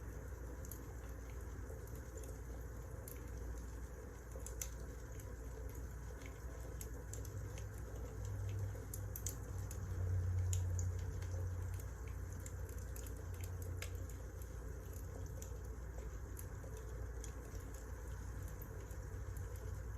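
Wood fire crackling: scattered sharp pops and snaps over a steady low rumble, which swells for a few seconds midway.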